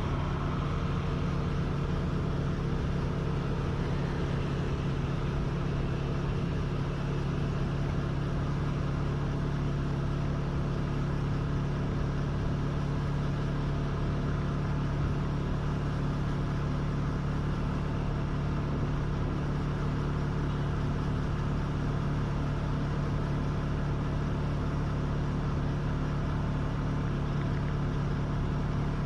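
A motor vehicle's engine running at a steady pitch while travelling, over constant wind and road noise.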